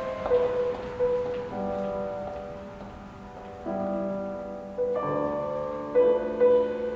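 Slow piano music: a single melody line with chords entering about a second and a half in, again near the middle and again about five seconds in.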